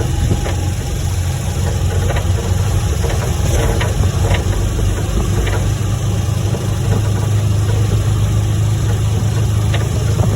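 A steady low hum like an engine idling, with a few faint clicks.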